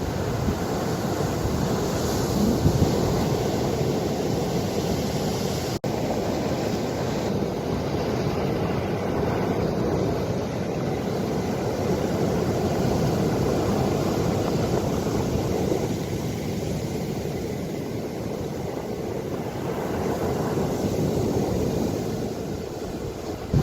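Ocean waves washing in, a continuous rush of surf that swells and eases slowly. The sound drops out for an instant about six seconds in.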